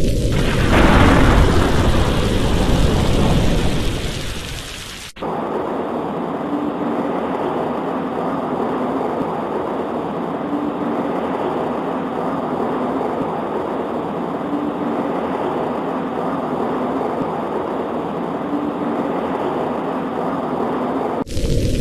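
A thunderclap over rain, rumbling deep and dying away over about four seconds. The sound then cuts off abruptly to steady rain, with another abrupt change in the rain's sound near the end.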